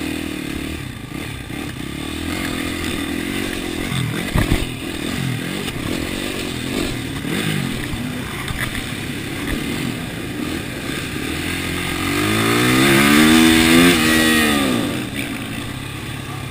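TM supermoto's single-cylinder engine revving up and down as it is ridden hard, heard from the helmet camera. There are two sharp knocks about four seconds in, and near the end a long rev rises and falls, the loudest part.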